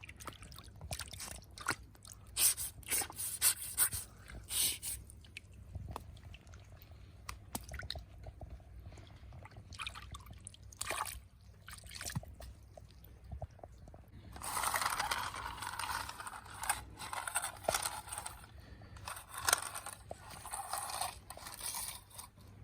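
Plastic toy vehicles being handled and cleaned: scattered scrapes and clicks with wet, dripping sounds, getting busier and louder for several seconds past the middle.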